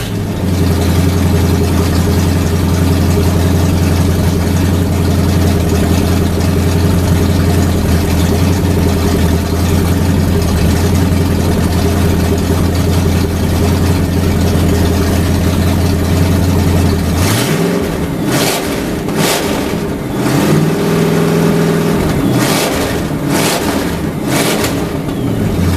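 Sunbeam Tiger's Ford 289 V8 running at a steady idle just after its first start-up. About two-thirds of the way through it is blipped several times, held at higher revs for a couple of seconds, then blipped again and settles back to idle near the end.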